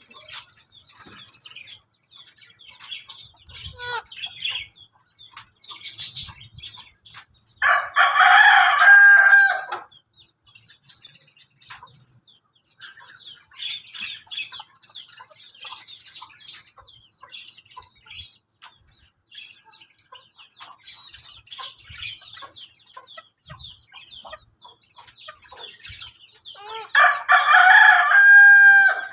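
Aseel rooster crowing twice, each crow about two seconds long and ending on a drawn-out held note, about twenty seconds apart. Soft clucks and chirps come in between.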